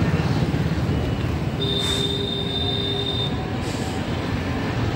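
Train running on the tracks below with a steady low rumble. About one and a half seconds in, a thin high wheel squeal rises over it, holds steady for under two seconds, and stops.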